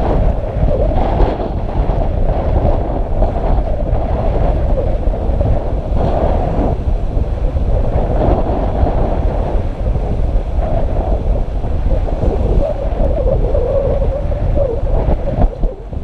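Tropical-storm wind buffeting the microphone in a steady heavy rumble, with rough surf and waves washing beneath it.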